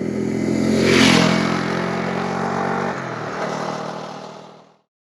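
Honda CRF250 Rally's single-cylinder engine running under way, with a brief swell of rushing noise about a second in and a slight drop in engine pitch about three seconds in, then fading out.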